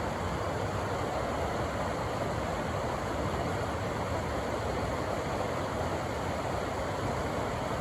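Rushing river water: a steady, unbroken wash of white-water noise with no change in level.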